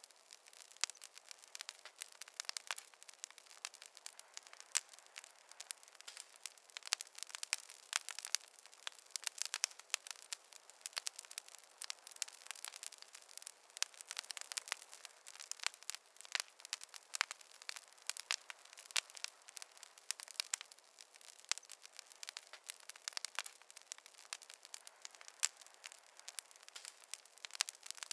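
Wood fire crackling steadily, with many quick irregular snaps and pops. The sound is thin, with no low rumble of flame beneath the crackle.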